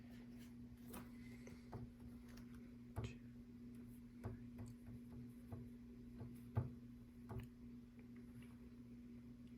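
Small plastic LEGO pieces clicking and tapping as they are handled and pressed onto the mosaic baseplate, in irregular faint clicks with a sharper one about two-thirds of the way through, over a steady low hum.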